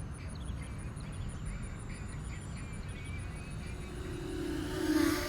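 Open-air ambience: low wind rumble on the microphone with a fast, even high insect ticking and a few faint chirps. About four seconds in, a motor hum swells and peaks near the end, like something passing close.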